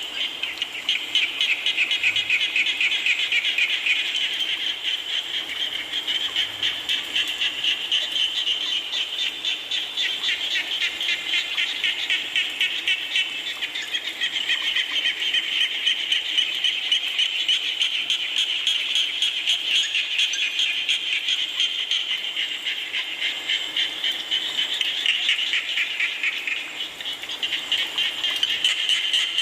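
A chorus of many frogs calling together in a dense, fast-pulsing trill that never lets up, over a steady hiss of rain.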